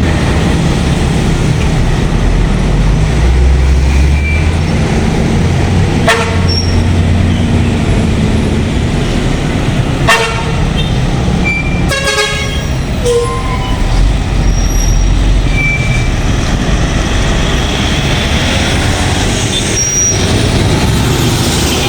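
Heavy diesel trucks rumbling past in road traffic, with a vehicle horn tooting briefly three times in the middle of the stretch, the last blast the longest.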